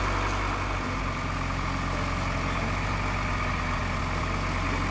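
Tractor engine running steadily, a low even hum with a hiss over it.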